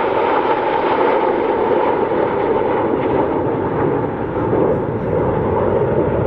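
BAE Hawk T1 jets of the Red Arrows flying a formation manoeuvre, their Rolls-Royce Adour turbofans giving a loud, steady rush of jet noise with an engine whine.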